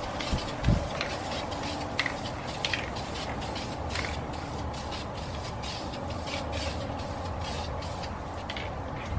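Aerosol spray can of metallic silver base-coat paint hissing in short repeated bursts as it is swept back and forth over an aluminium wheel.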